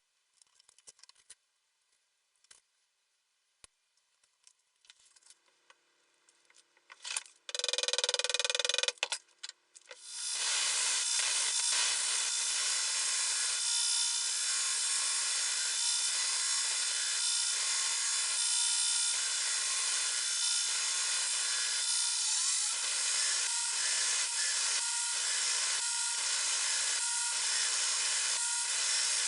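A few faint clicks and taps, a brief loud burst about seven seconds in, then from about ten seconds a power grinder running steadily against the steel blade with a loud, even hiss.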